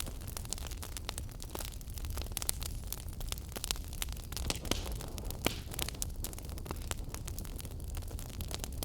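Wood fire burning in a fireplace: a low steady rumble of flames under frequent sharp crackles and pops at irregular intervals.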